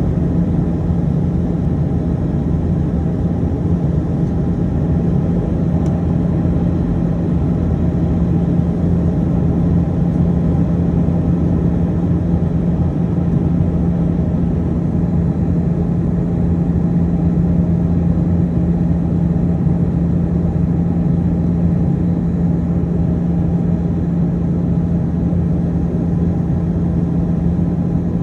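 Steady cabin noise of an Airbus A320-212 on descent, heard from a window seat: the drone of its CFM56 turbofan engines and the rush of air past the fuselage, with one constant low hum.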